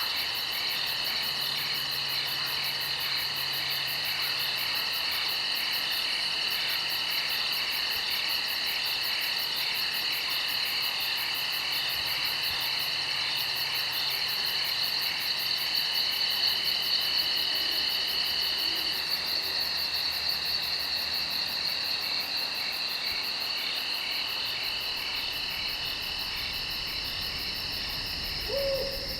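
A dense, steady chorus of insects trilling in rapid pulses, with an owl giving a short falling hoot right at the end.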